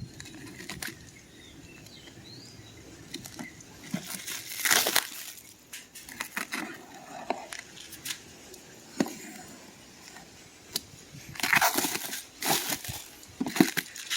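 Packaging being handled during an unboxing: irregular rustling, crinkling and scraping with small knocks, loudest about five seconds in and again near the end.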